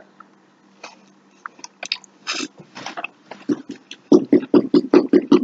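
A man chewing a mouthful of fried zucchini: scattered soft clicks at first, then a quick, even chewing rhythm that grows louder near the end.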